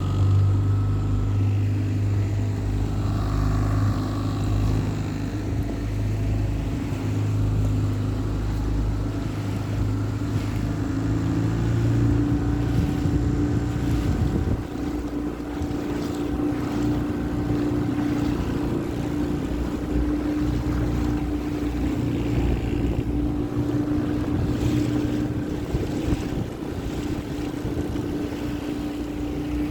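Small hire motorboat's engine running steadily underway, its note changing about twelve seconds in as a higher steady hum takes over.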